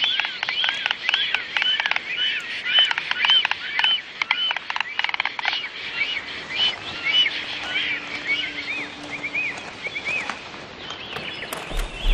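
A bird calling with short, high, arched chirps, three or four a second, that thin out after about six seconds and stop around ten seconds in.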